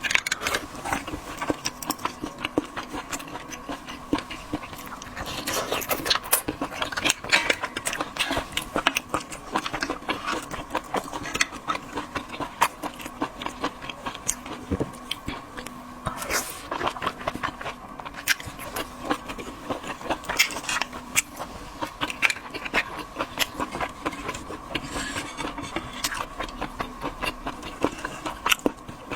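Shellfish being eaten close to the microphone: many irregular cracks and clicks of shells being broken and bitten, with chewing, over a faint steady hum.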